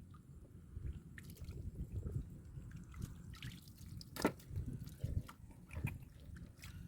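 Wet mud and water squelching and dripping as hands work through it, with irregular small splashes and one sharp click about four seconds in.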